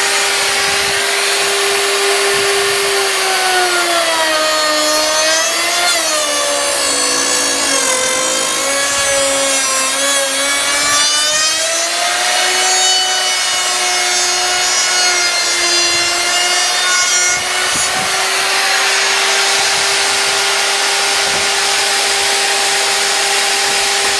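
Router running at full speed while milling the edge of a wooden door rail. Its steady high whine sags in pitch for several seconds as the bit cuts into the wood, then comes back up, with the hiss of the cut over it.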